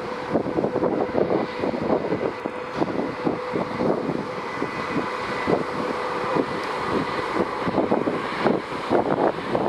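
Steady drone of a ferry's machinery, with an even hum under it, while wind buffets the microphone in irregular gusts.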